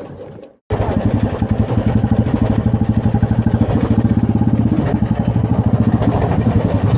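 Motorcycle engine running steadily with a rapid, even pulse, starting abruptly about half a second in after a moment of silence.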